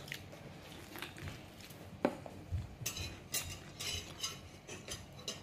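Biting and chewing kernels off a cob of cooked sweet corn close to the microphone: soft, irregular crunches and mouth clicks, coming thicker in the second half.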